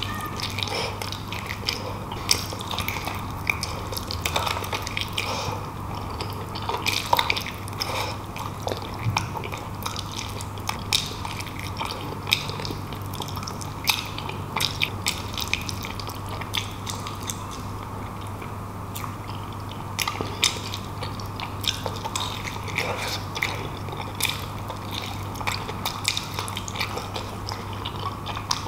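A person biting and chewing beef bulalo meat off the bone, with many short wet mouth clicks, over a steady low hum.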